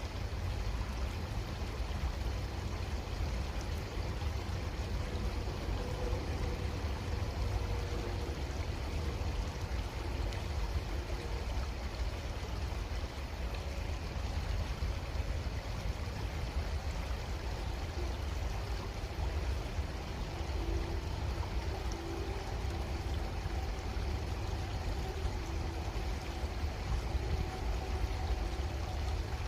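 Creek water running steadily, an even, unbroken rush with no pauses.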